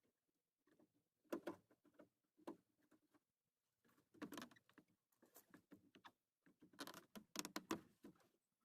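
Faint, irregular knocks, clicks and rattles of a plastic door armrest being handled and pushed into place while it is test-fitted.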